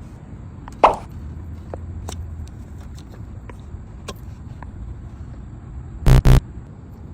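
A sharp click, a few light ticks, then two short loud beeps in quick succession near the end.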